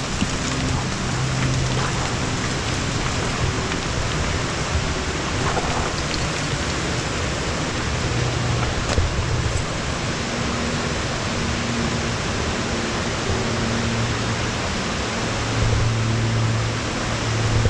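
Steady rushing of a mountain waterfall and its cascades, an even roar of falling water, with a faint low hum that comes and goes underneath.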